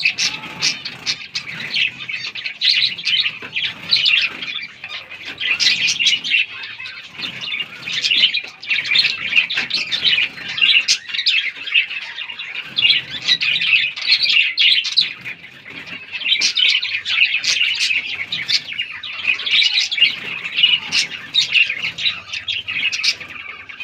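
A flock of small Australian finches chirping densely and continuously, many short calls overlapping.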